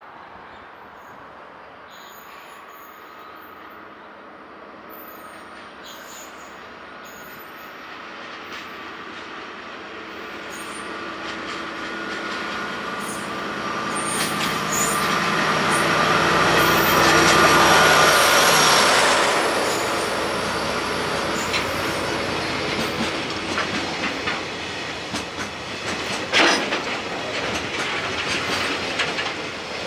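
A DE10 diesel-hydraulic locomotive approaches and passes, its engine growing steadily louder to a peak a little past halfway. Container flatcars then roll by, with wheels clicking over rail joints and one sharp knock near the end.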